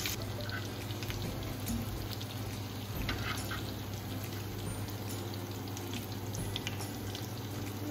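Mutton chops sizzling steadily in oil on a flat iron tawa over a low flame, with a few light clicks of metal tongs as the chops are turned.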